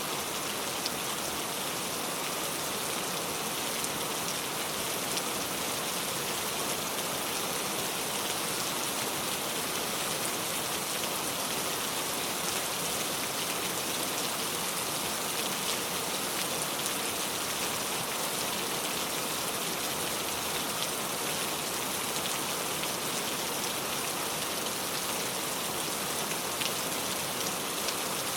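Steady rain falling, an even hiss full of fine drop patter.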